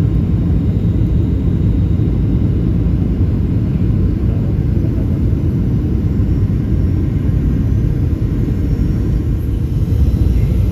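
Steady low drone of an aeroplane's engine and airflow, heard from inside the cabin.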